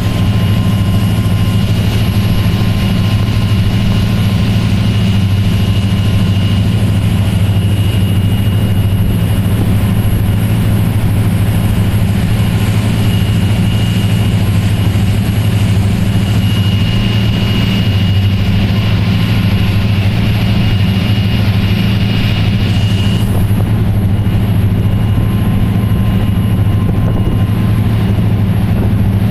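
Motor boat's engine running at a steady low drone under a constant hiss.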